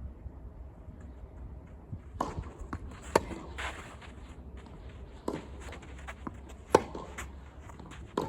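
Tennis rally that starts about two seconds in: sharp racket-on-ball hits about every second or so, two of them much louder, with ball bounces and players' footsteps on the court in between.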